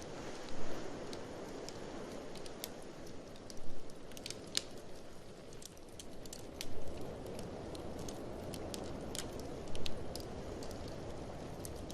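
Wood fire in a fireplace crackling with scattered sharp snaps and pops, a louder crackle about every three seconds, over a steady low rush of blizzard wind.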